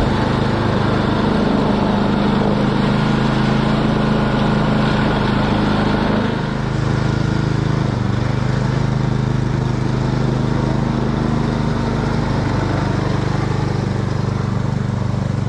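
Small gasoline engine running steadily, its pitch shifting slightly about six seconds in.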